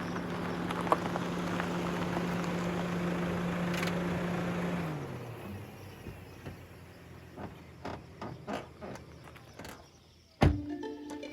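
A vehicle's engine running steadily, then dropping in pitch and fading about five seconds in as it slows. Quieter scattered clicks follow, then a sharp thump near the end, after which plucked-string music begins.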